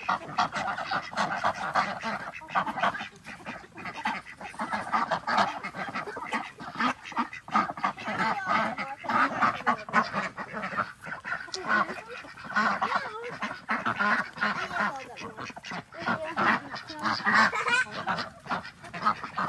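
A flock of domestic ducks quacking nonstop, many short calls overlapping.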